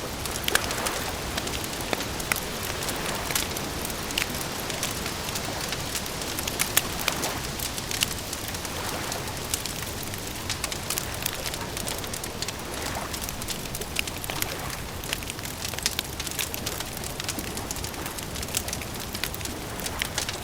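Wood fire crackling and popping, with irregular sharp snaps over a steady hiss.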